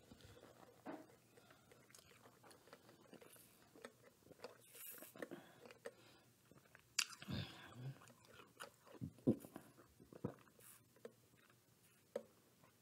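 Faint close-up chewing and small mouth clicks of a person eating a fried chicken sandwich, then several louder short gulps from about seven seconds in while drinking from a steel tumbler.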